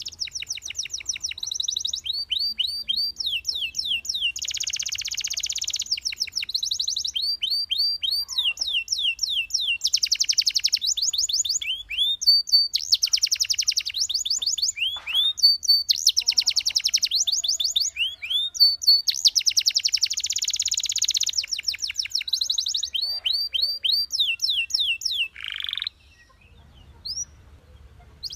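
Belgian canary singing: fast trills of repeated downward-sweeping notes alternating with dense rolling tours. The song breaks off about two seconds before the end, leaving only a couple of faint notes.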